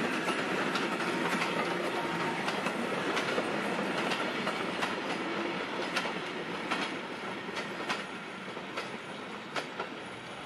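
Steam-hauled train of vintage passenger coaches rolling past, its wheels clicking over rail joints and points in an irregular clickety-clack over a steady rolling noise that eases off after about seven seconds.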